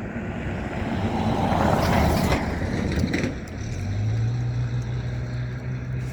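A road vehicle passes close by, its tyre and engine noise swelling to a peak about two seconds in and then fading. About three and a half seconds in, a steady low engine hum sets in.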